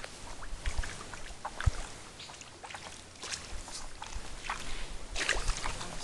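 Water splashing and sloshing in short irregular strokes as a fishing screen trap is worked into a pond, with a sharp low knock under two seconds in.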